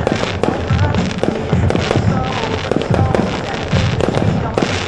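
Aerial fireworks shells bursting one after another, a dense run of deep booms and crackling bangs.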